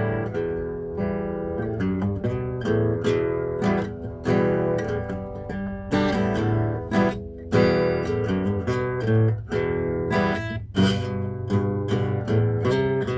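Acoustic guitar strummed in changing chords.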